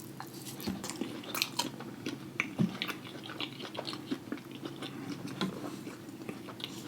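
Close-miked chewing and mouth smacking of a mouthful of loaded lobster tail, with many small irregular wet clicks.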